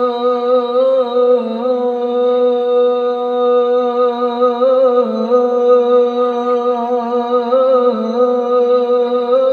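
A man singing a sholawat line in one long, unbroken melismatic passage. The held notes bend in small ornamental turns every few seconds.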